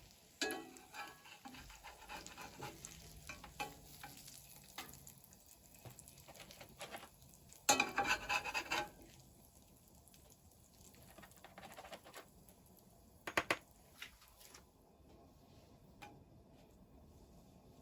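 Cooking in a pan: a utensil stirring, scraping and clinking against the pan over a faint sizzle. A louder scraping clatter lasts about a second, about eight seconds in, and a couple of sharp clinks come near the thirteen-second mark.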